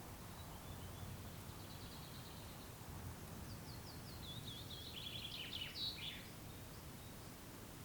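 A songbird singing: a faint short trill, then a louder phrase of quick repeated notes that step down in pitch and end in a brief flourish. Underneath is a faint, steady low rumble.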